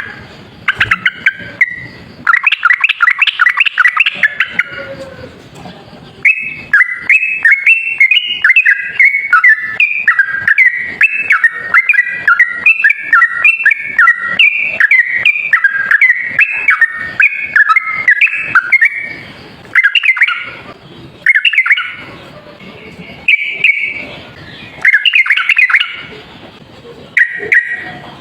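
Yellow-vented bulbul singing in a fast, run-on 'ropel' style of rapid bubbling, chattering notes. A short burst comes first, then a long unbroken run from about six seconds in until nearly twenty, then shorter phrases.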